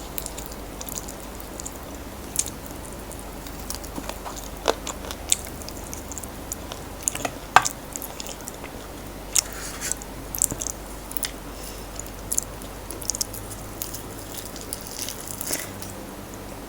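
Close-miked biting and chewing of crispy fried chicken: irregular sharp crunches of the fried coating, scattered through the chewing.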